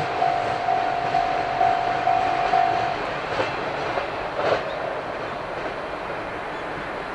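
Japanese level-crossing alarm ringing in a rapid, even pulse and cutting off about three seconds in, over the fading rumble of an EH500 electric locomotive hauling a second, unpowered EH500 past the crossing. Two sharp wheel clacks come in the middle as the rumble dies away.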